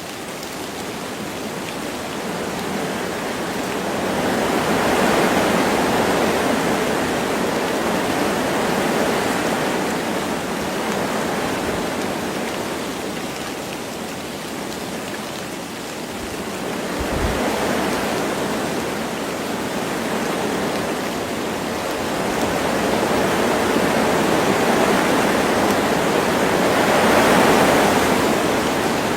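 Wind blowing through forest trees with light rain, a steady rushing noise that swells and eases in slow gusts, rising three times.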